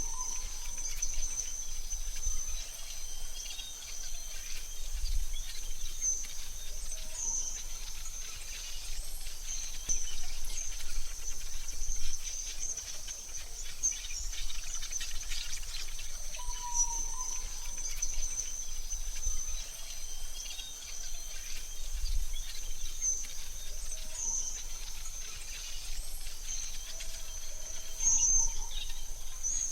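AI-generated forest ambience: a steady high insect drone with scattered short bird chirps and a few brief lower calls.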